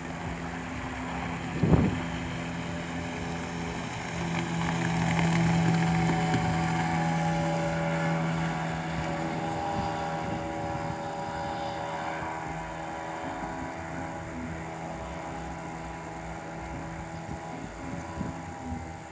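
Small outboard motor running on a boat under way, with a steady engine note that swells about five seconds in and then slowly eases off. There is one sharp knock about two seconds in, the loudest moment.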